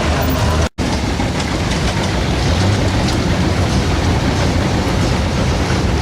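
Modified pulling tractor's engine running hard at full power under load: a loud, steady din. It is broken by a brief dropout just under a second in.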